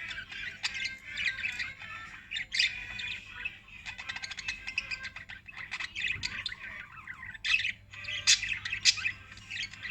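Pet lovebirds chattering: a dense run of rapid, overlapping chirps and squawks, with a few louder sharp calls in the second half.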